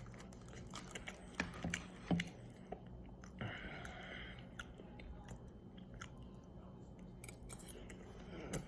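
A person chewing a mouthful of microwaved sesame chicken and vegetables, with wet mouth sounds and scattered sharp clicks, the loudest a little after two seconds in.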